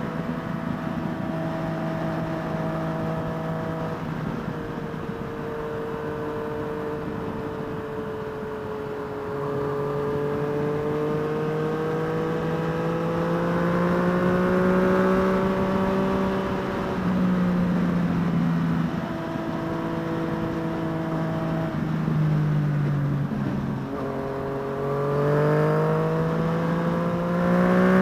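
Yamaha FZ-09's 847 cc inline-three engine running while riding, its pitch holding steady, dropping at gear changes and climbing again under throttle several times, over steady wind noise.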